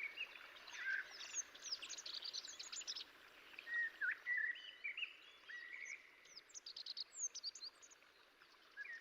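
Small birds calling and chirping in overlapping bouts: short whistled notes that slide up or down, and quick runs of high, thin chirps.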